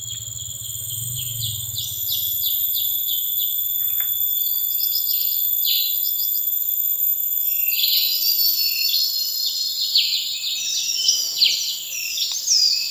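Tropical rainforest ambience: insects hold steady high-pitched drones while birds give quick runs of chirps, growing busier in the second half.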